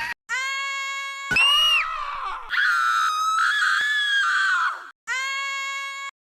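Cartoon scream sound effects played back to back: four separate held, high-pitched screams, each cut off abruptly with a split second of silence before the next. The third is the longest and wavers in pitch.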